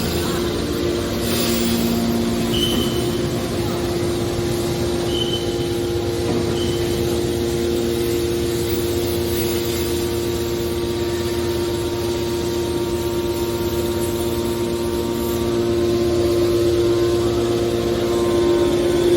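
Hydraulic scrap metal baler running: a steady hum from its pump and motor, with a few short high squeaks in the first several seconds, growing a little louder near the end.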